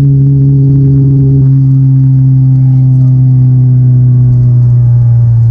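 Toyota 2ZZ-GE inline-four engine in a swapped Corolla running under way with a steady drone, its pitch sinking slowly as the revs ease off.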